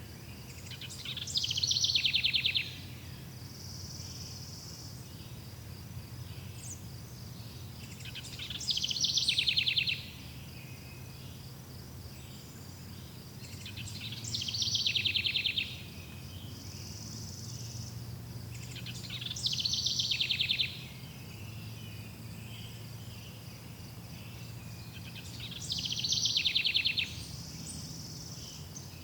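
A songbird repeating a fast trilled song phrase five times, about every six seconds, each phrase lasting about a second and a half, growing louder and stopping abruptly. Behind it, crickets chirr steadily at a high pitch.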